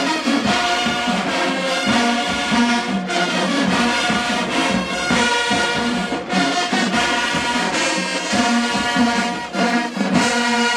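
HBCU marching band playing, its brass section of trombones and trumpets carrying the tune over a steady drum beat.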